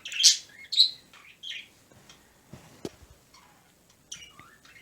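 Pet birds chirping in short high calls, several in the first second and a half and a few more near the end, with a single sharp click near the middle.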